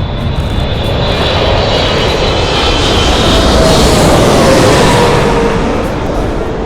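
Boeing 777 twin-engine jet airliner of EVA Air passing low overhead on landing approach. Its engine roar swells to a peak about four seconds in, then fades, with a whine that drops in pitch as it goes by.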